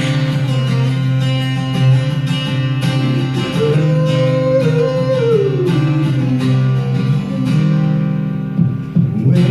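Live acoustic guitar intro to a rock song: strummed chords with a melodic lead line sliding through the notes, before the vocals come in.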